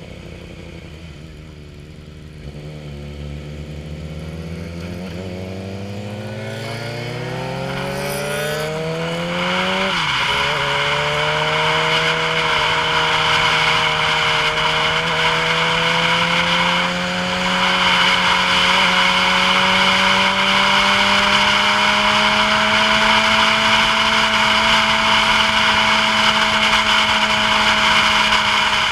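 A vehicle engine pulling away, its pitch climbing steadily. About ten seconds in it drops with a gear change, then climbs slowly and holds steady at cruising speed. Rushing wind noise builds with the speed and becomes the loudest part of the sound.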